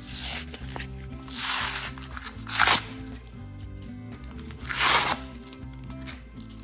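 Plastic blister packaging being pulled open, with four short crinkling, tearing bursts, the loudest about two and a half and five seconds in, over background music.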